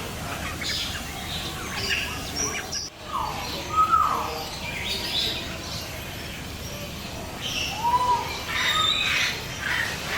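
Several birds calling together: a mix of quick high chirps and a few louder whistled calls that sweep up and then fall away. There is a brief break about three seconds in.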